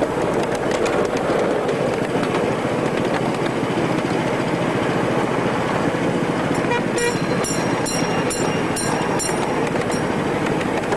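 Miniature ride-on railway train running along its track with a steady rumble. In the second half there is a high ringing strike repeated about twice a second for around three seconds.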